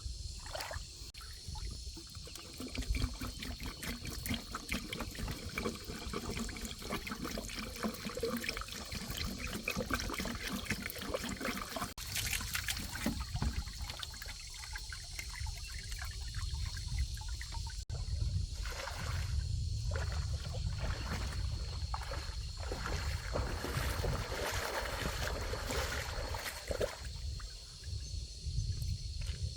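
Liquid trickling and pouring, with small clicks and handling noises.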